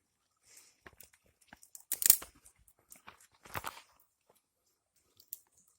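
Dry twigs and sticks being handled and snapped, irregular crackling with two louder crunches about two seconds and three and a half seconds in.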